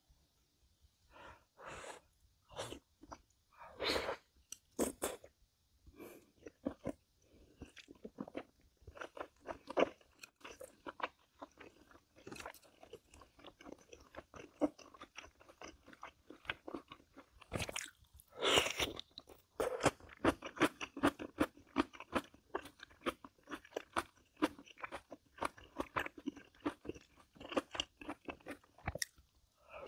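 A person chewing and biting crunchy food in irregular runs of crunches and wet mouth clicks. The louder bites come about four seconds in and again just past the middle.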